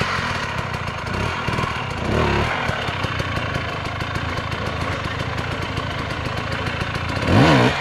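Dirt bike engine running close by, with a brief rev about two seconds in, then holding a steady speed.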